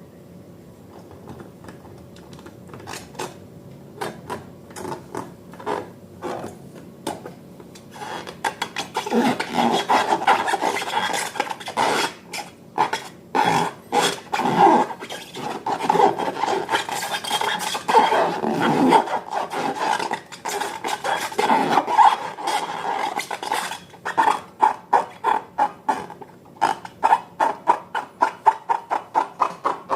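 Slime being mixed in a bowl: a utensil scraping and clicking against the bowl. The strokes are sparse at first, dense and continuous through the middle, then quick and regular, about two to three a second, near the end.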